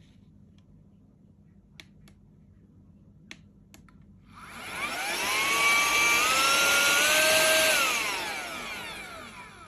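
Tiazhan handheld vacuum and air duster: a few clicks, then its small high-speed motor spins up with a rising whine about four seconds in, runs steadily, steps up once in pitch, and winds down with a falling whine.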